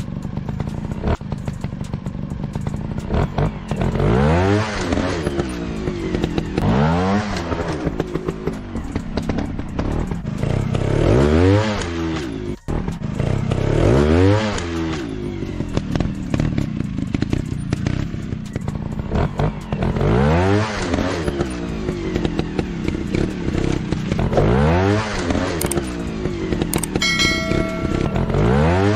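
Dirt-bike engine revving in repeated short bursts, pitch rising and falling several times as the throttle is blipped on and off.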